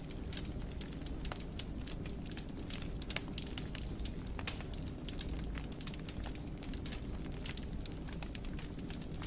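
Wood fire burning in a fireplace, a steady low rumble with frequent irregular sharp crackles and pops.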